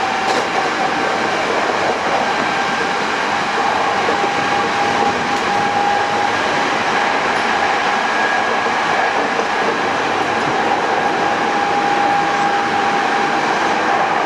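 Hankyu 8000 series electric train with Toshiba GTO-VVVF drive, heard from inside the car, running at a steady speed: a continuous rumble of wheels on rail with a steady whine held at one pitch.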